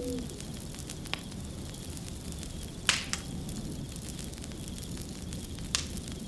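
Wood fire crackling steadily, with a few sharper pops about a second in, near three seconds and near the end.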